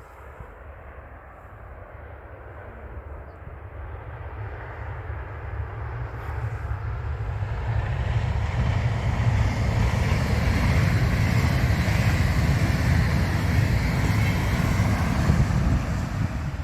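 A train approaching on the line: a low rumble and rolling noise grows steadily louder over about eight seconds, then stays loud as it passes close by.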